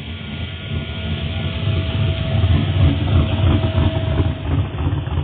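A car's engine rumbling close by as the car drives past, getting louder over the first few seconds, with a faint steady whine heard through the middle.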